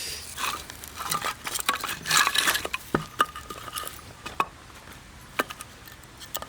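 A knife scraping and shaving a hard stick of firewood to make a feather stick: irregular scraping strokes and sharp clicks, busiest in the first half, then a few single clicks.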